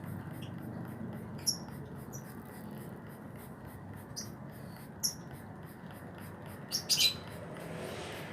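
Cucak ijo (green leafbird) giving short, high chirps at irregular gaps, the loudest double chirp near the end, over a steady low hum.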